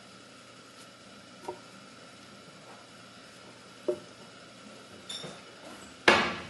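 Kitchen dishes and utensils being handled while a smoothie is made: a few light knocks and clinks, then a louder clatter near the end.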